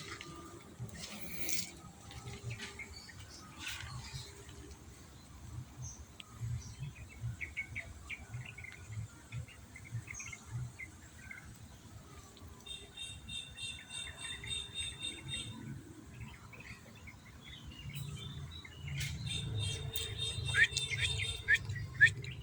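Brown-throated sunbird chirping: short, high chirps scattered throughout, with a fast, even trill twice, once around the middle and again near the end.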